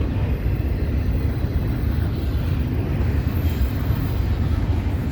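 Double-stack intermodal freight train rolling past at close range: a steady low rumble of wheels on rail, with no horn.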